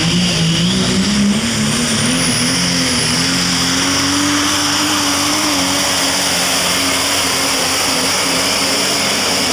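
Super stock diesel pulling truck's engine running flat out under full load, its pitch climbing over the first few seconds and then holding steady.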